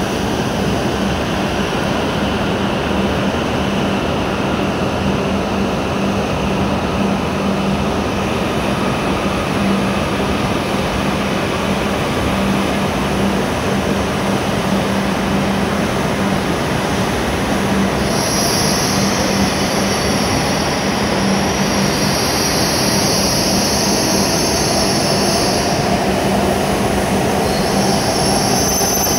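E7 series Shinkansen train running in along the platform as it slows to arrive, a loud steady rush of wheels and running gear over a low hum. About two-thirds of the way in, a high squeal comes in as the train brakes, fading and returning near the end.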